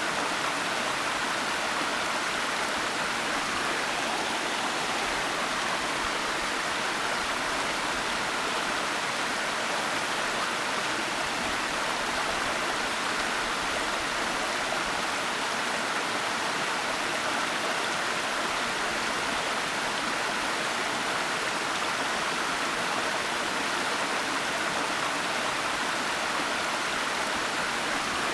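Waterfall, water falling and rushing in a steady, unbroken hiss with no change in level.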